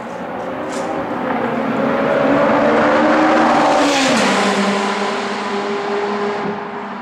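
A Ferrari sports car passing at speed. The engine note builds, drops in pitch as the car goes by about four seconds in, then fades.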